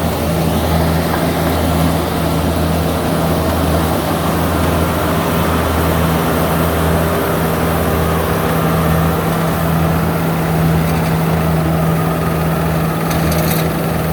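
Rice combine harvester's diesel engine running steadily and loudly with a constant low hum.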